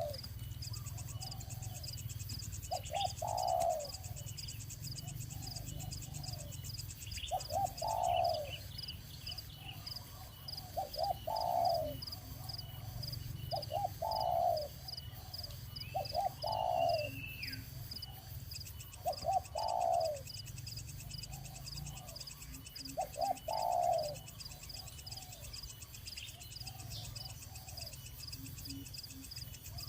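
A dove cooing over and over, a short phrase of a few notes about every three to four seconds, over a steady high, pulsing chirring. About halfway through another bird gives one brief falling whistle.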